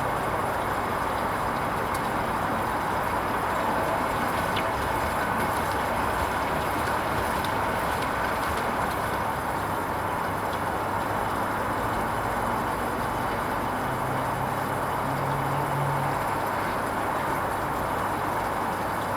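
Hoover Vision HVP16 washing machine running its Silks 30 programme: a steady noise, with a low motor hum that rises briefly about fourteen to sixteen seconds in.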